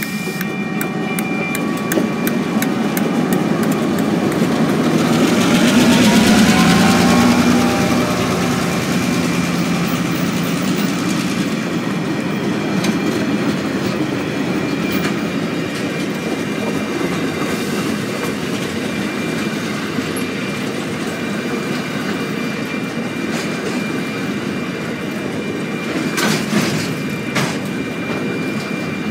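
Two DQ-class diesel locomotives pass at close range, loudest about six seconds in, followed by empty ballast hopper wagons rolling past with steady wheel-on-rail noise and a few sharp clicks near the end. A level crossing bell rings steadily throughout.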